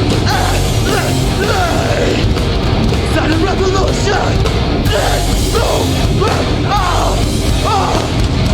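Hardcore punk band playing live at full volume: distorted guitars, bass and drums, with a run of notes sliding up and down over the top.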